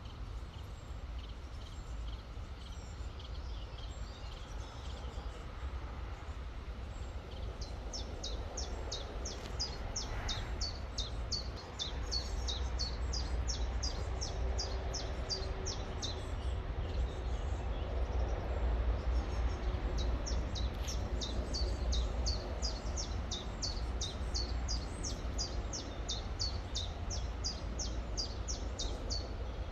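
A songbird singing two long runs of rapid, repeated high notes, each sweeping downward, about two to three a second, over the steady rush of a river with a low rumble beneath.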